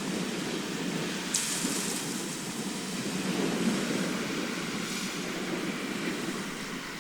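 Sea surf: a steady low rush of waves, with a hissing wash of breaking water about a second in and again about five seconds in.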